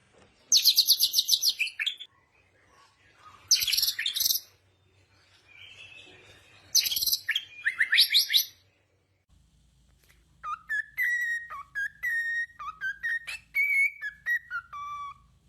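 A bird singing: three bursts of fast, high trills, then after a short pause a run of clear whistled notes sliding up and down.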